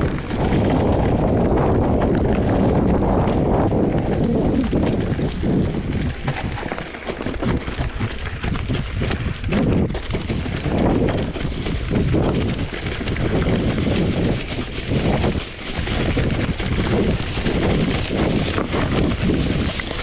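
Wind buffeting a GoPro's microphone: a loud low rumble, steady for the first few seconds and then rising and dropping in gusts.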